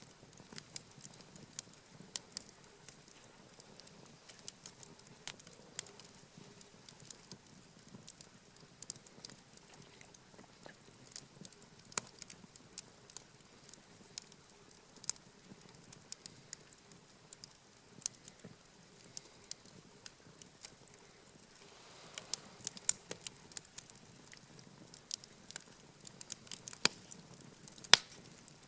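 Wood campfire crackling, with irregular sharp pops throughout, busier in the last third and with one loud pop near the end.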